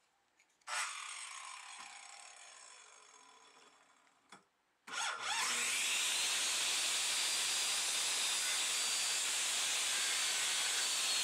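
Corded electric power saw: a short burst about a second in that fades away over a few seconds, then about five seconds in the motor spins up with a rising whine and runs loud and steady through the wood.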